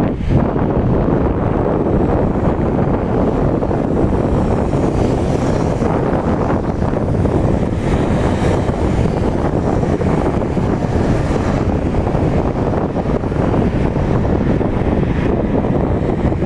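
Steady wind buffeting the microphone, a dense low rumble of noise.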